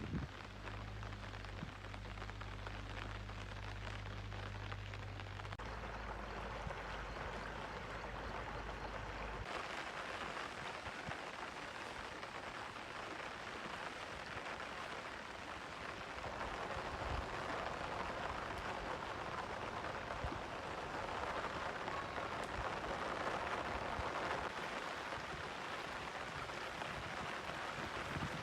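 Steady hiss of heavy rain falling. A low steady hum runs underneath for the first several seconds and stops about nine seconds in.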